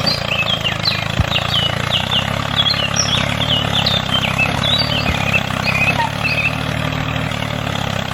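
A steady low engine drone with small birds chirping over it, the chirps busiest in the first five seconds.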